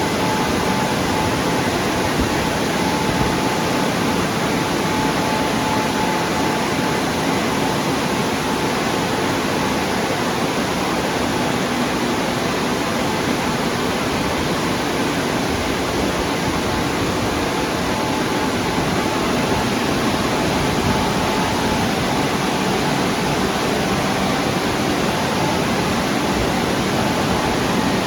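WashTec automatic car wash gantry at work: a steady, unbroken rushing noise of spray or air against the car, with a faint steady whine.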